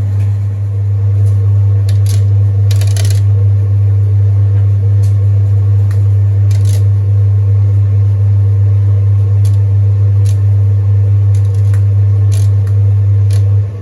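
Zanussi TD200 vented tumble dryer running with a load of bedding: a loud, steady low motor hum, with scattered clicks and taps from the tumbling load. Right at the end the drive motor stops as the drum pauses to reverse, and the level drops while the separate blower fan keeps running.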